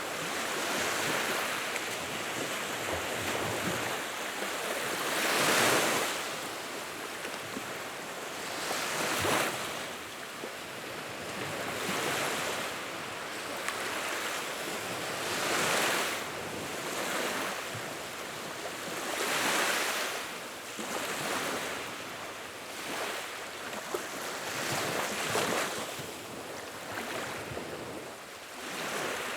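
Fire burning in a fireplace: a rushing of flames that swells and fades every few seconds, with only an occasional faint crackle.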